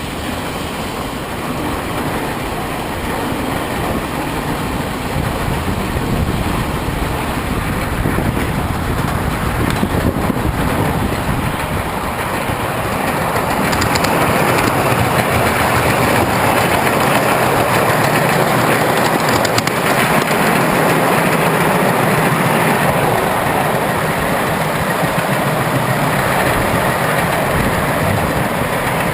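Passenger train rolling along the track, a continuous rumble of wheels on rails that grows louder about halfway through.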